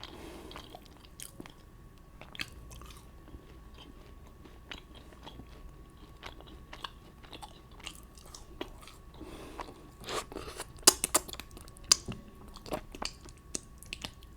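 Close-miked chewing and biting of food, wet mouth clicks and crunches, with a run of louder crunchy bites about two-thirds of the way through.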